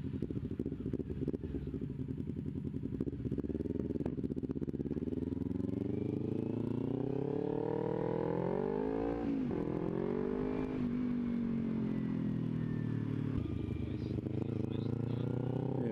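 Kawasaki Ninja 250 motorcycle engine pulling away and accelerating. The revs climb for several seconds, drop sharply at a gear change about nine seconds in, rise again, then settle to a steadier cruise.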